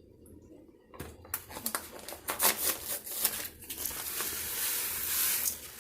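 Packets of Spanish rice being handled and torn open: crinkling and tearing packaging with sharp rustles, then a steady hiss for about two seconds near the end.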